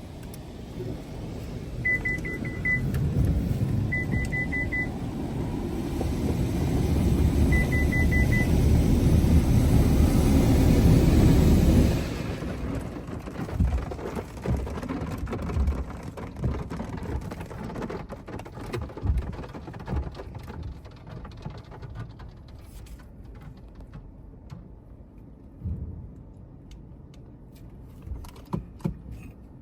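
Futura Revolution touchless car wash heard from inside the car: a dense rush of spray against the body builds up and cuts off sharply about twelve seconds in, followed by quieter scattered taps. Three short runs of beeps sound in the first nine seconds.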